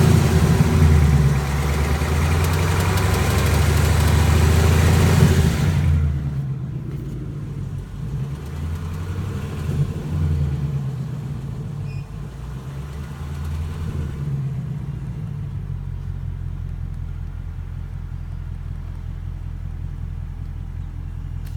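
2018 Ford Mustang GT's 5.0 L V8 engine running. It is loud and hissy for about the first six seconds, then drops off and settles to a steady idle. The engine has a tick/rattle noise that the owner is trying to get diagnosed.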